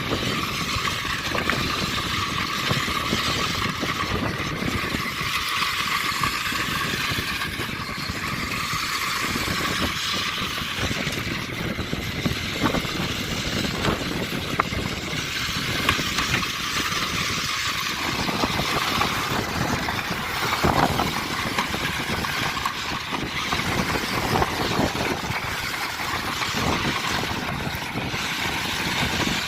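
Radio-controlled monster trucks running: a continuous motor and tyre noise with a faint steady high hum that fades out about two-thirds of the way in.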